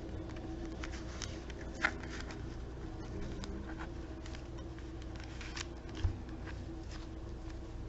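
Soft, scattered clicks and light taps of small objects being handled, with two slightly louder knocks, one about two seconds in and one about six seconds in, over a steady low background hum.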